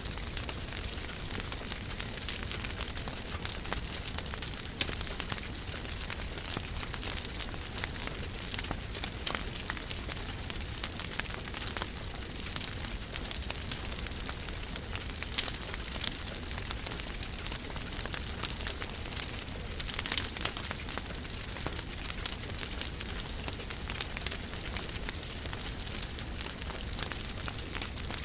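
Wood fire burning in a fireplace, crackling: a steady hiss dotted with many small pops and a few louder snaps.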